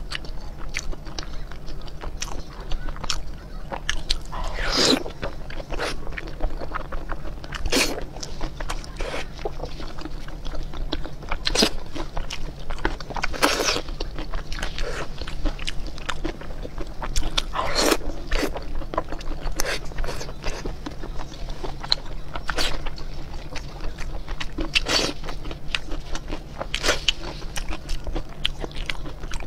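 Close-miked chewing and wet mouth sounds of a person eating soft glazed braised pork belly. Frequent short smacks run throughout, with a few longer, louder ones.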